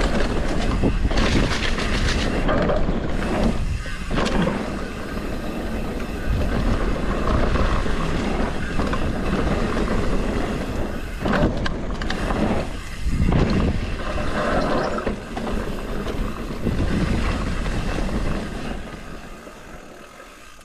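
Mountain bike ridden fast down a dirt trail, heard from a GoPro on the rider: continuous rushing wind and tyre noise with scattered knocks from the bike over bumps, quieting in the last two seconds or so as it slows.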